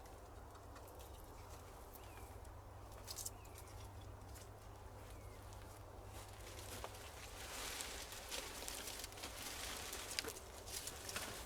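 Footsteps and rustling in dry forest litter, with scattered twig cracks and clicks; the rustling grows busier about halfway through. A few faint short chirps come in the first half.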